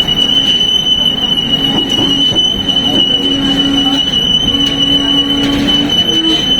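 Passenger train running, with a steady high-pitched wheel squeal over the rumble of the wheels. A lower hum comes and goes in stretches of about a second.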